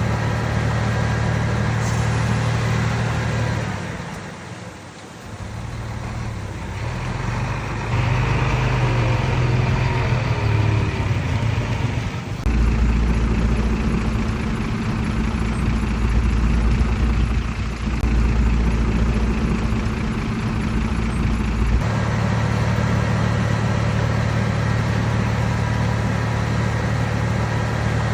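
Heavy diesel engine of earthmoving machinery running steadily. It dips briefly about five seconds in, and a deeper engine note takes over for several seconds in the middle before the first sound returns.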